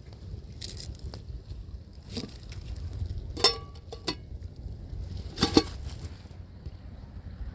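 Steady low wind rumble on the microphone, broken by four sharp knocks. The two loudest, a little after three seconds in and again near five and a half seconds, ring briefly.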